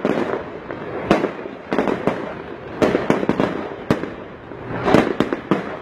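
Aerial fireworks exploding: about ten sharp bangs at uneven intervals, some close together in quick runs.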